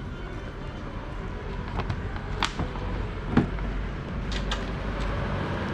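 A few sharp metallic clicks and knocks from parts and hand tools being handled during the outboard carburetor change, the loudest about three and a half seconds in, over a steady low rumble.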